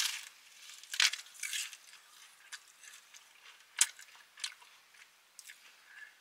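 Crunching and chewing of flaky apple pie pastry: scattered crisp crackles, the loudest about a second in and near four seconds.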